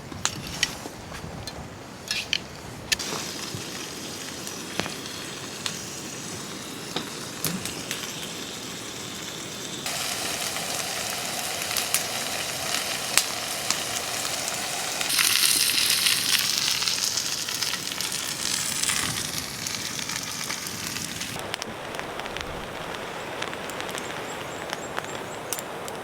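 Food frying in a pan over a campfire: a steady sizzle dotted with sharp crackles and pops from the fire. The sizzle shifts abruptly in tone several times and is loudest from about the middle to two-thirds of the way through.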